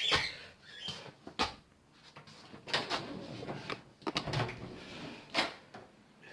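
A series of separate knocks and clicks, roughly one every second or so, with soft rustling between them: household handling noise.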